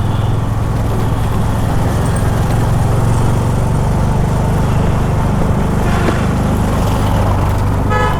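Honda H'ness CB350's single-cylinder engine running at a steady pace while riding through traffic. A vehicle horn sounds briefly near the end.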